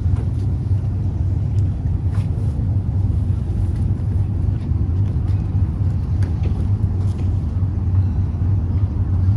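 Truck engine running with a steady low drone that holds even throughout, with a few faint ticks over it.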